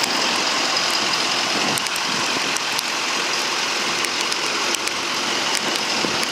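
Steady rain from a summer shower that has picked up in intensity, an even hiss with scattered sharp ticks of drops striking close by.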